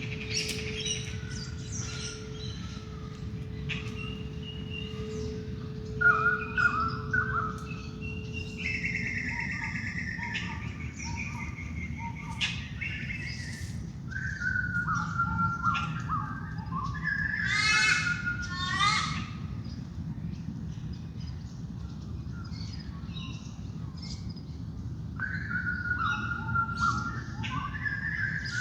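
Dawn chorus: several wild birds singing and calling over one another, with some harsher calls among them, louder about a fifth and two-thirds of the way through. A soft steady singing bowl tone sounds underneath and fades out about a third of the way in.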